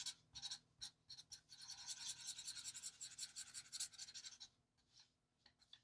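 Colorless blender marker rubbed back and forth on paper in quick, faint, scratchy strokes, blending the alcohol-marker colour; the strokes stop about four and a half seconds in.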